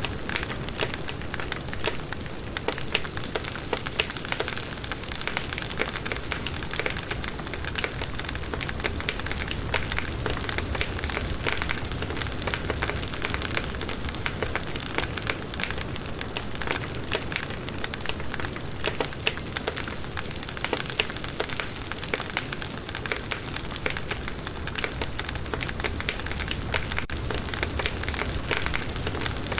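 Firewood burning in a campfire, crackling and popping steadily over a soft hiss.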